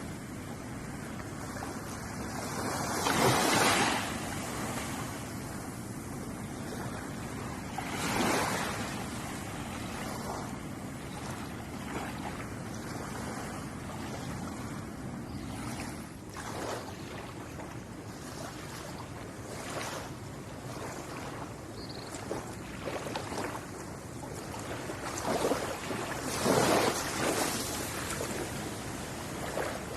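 Ocean waves washing onto a shore: a steady surf hiss with a louder breaking wave about three seconds in, another about eight seconds in, and two more close together near the end.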